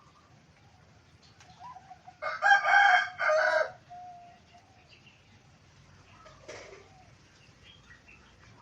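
A rooster crows once, loudly, about two seconds in, for about a second and a half. Faint zebra dove cooing is heard around it.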